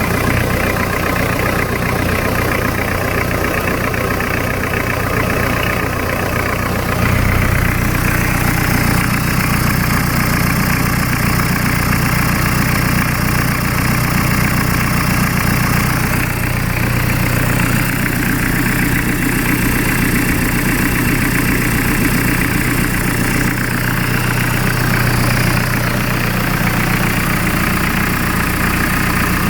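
Hyundai D4BH four-cylinder turbodiesel engine idling steadily while its oil pressure is tested, with small shifts in its tone along the way.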